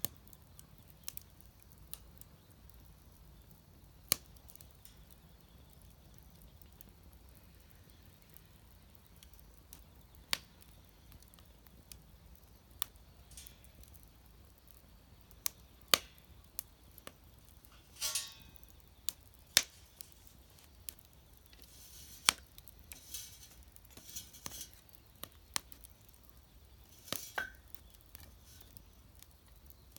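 Wood fire burning in a homemade fire pit, crackling with sharp single pops at irregular intervals, a few seconds apart. There are a few brief, softer hissing spells in the second half.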